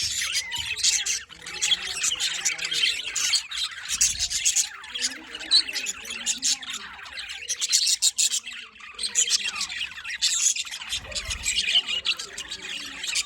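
A flock of budgerigars and lovebirds chattering and squawking together: a dense, continuous chorus of rapid chirps and harsh squawks.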